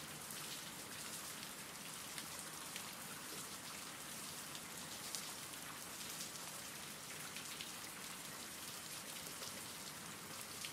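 Faint, steady rain: an even hiss with scattered ticks of single drops.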